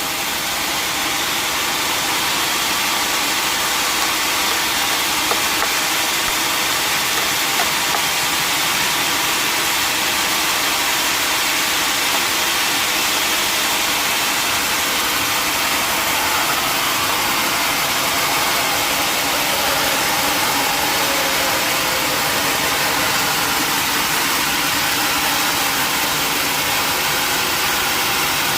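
Sawmill machinery running steadily, giving a loud, even mechanical noise with no breaks.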